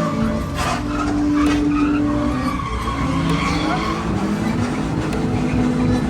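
Drift car's engine revving hard, its pitch rising and falling, with tyres skidding and squealing through a slide.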